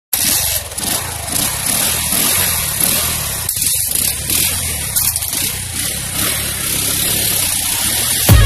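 Motorcycle engine running steadily, with a broad hiss over its low note. It cuts in abruptly at the start.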